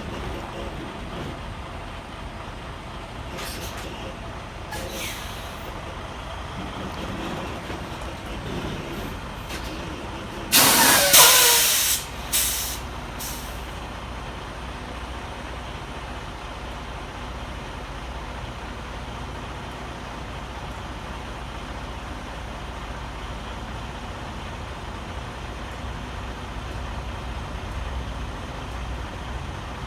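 A semi-truck's air brakes hiss loudly for about a second and a half, about ten seconds in, followed by two short puffs of air. Under it runs the steady low rumble of the truck's diesel engine.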